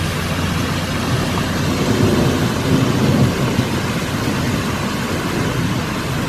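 Loud, steady rushing of water in a desert flash flood, swelling slightly about two to three seconds in.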